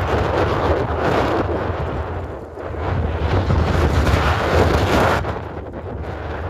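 Strong gusting wind buffeting the microphone: loud rumbling roar that swells and eases with the gusts, easing a little about two seconds in and again near the end.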